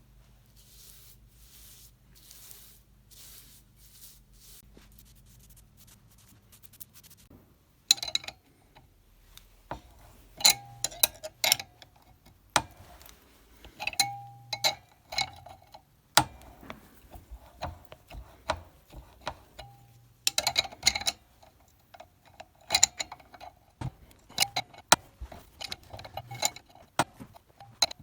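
Irregular sharp metallic clinks and taps, each with a brief ring, as metal parts or tools strike metal. They begin about eight seconds in, after a stretch of faint low hum.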